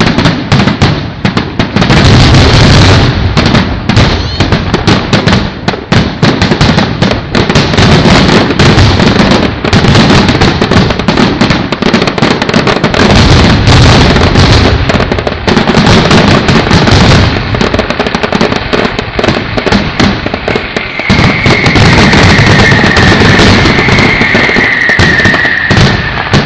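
Fireworks display: a dense, continuous barrage of loud bangs and crackles. Near the end a high whistle joins in, sliding slightly down in pitch.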